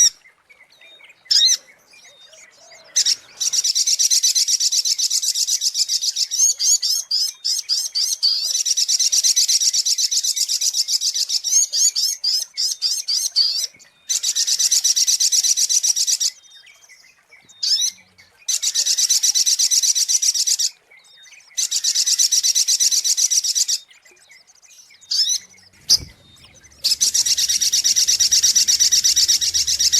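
Recorded song of the sogok ontong, a small songbird, used as a lure call: long bursts of rapid, high twittering chirps lasting two to ten seconds each, broken by short pauses and a few single short calls.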